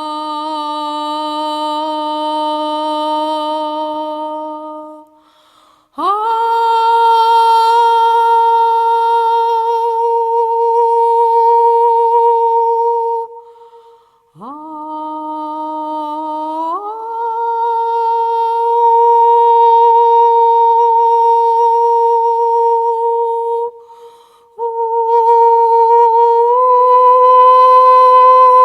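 A voice singing long, steady sustained tones without words, four held notes separated by brief breaths. The pitch steps up partway through the third note and lifts slightly again near the end.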